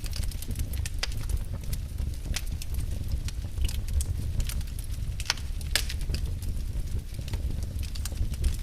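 Wood fire burning in a fireplace: a steady low rumble of flames with irregular sharp crackles and pops from the burning logs, a couple of louder pops about five to six seconds in.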